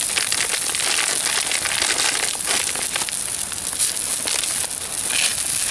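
Campfire of wet wood crackling and hissing, a steady dense run of small pops and snaps.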